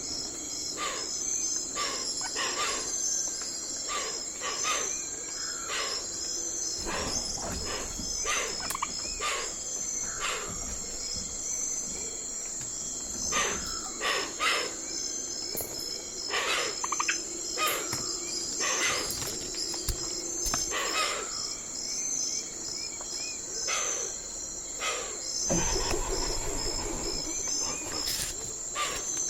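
Night forest ambience: a steady high-pitched insect chorus of crickets, with many short calls from other animals repeating every second or so. A brief low rumble comes near the end.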